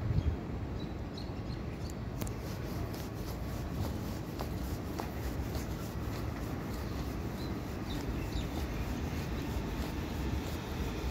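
Distant suburban electric train approaching along the line: a steady low rumble that grows slightly louder towards the end, with faint ticking from the rails and a few short high chirps.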